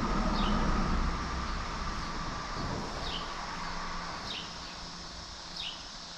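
A bird repeats a short, high, falling chirp four times, about a second or more apart, over a steady rushing outdoor background.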